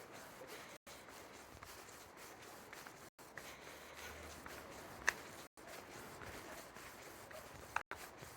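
Faint outdoor ambience: a steady low hiss of background noise with a few short, sharp clicks or chirps, the loudest about five seconds in. The sound cuts out completely for an instant several times.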